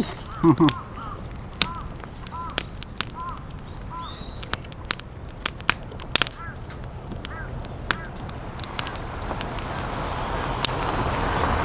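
Wood campfire crackling with frequent sharp pops, while a bird repeats short chirping calls. A steady rushing hiss swells near the end.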